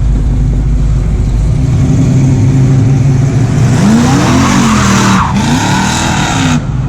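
A car engine revved hard several times, its pitch rising and falling, while the tires squeal in a burnout from about halfway in, cutting off abruptly near the end. A steady low engine rumble runs underneath.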